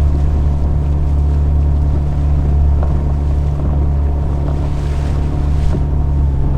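Outboard motor of an inflatable fishing boat running at a steady trolling speed, a constant low drone with wind and water noise over it.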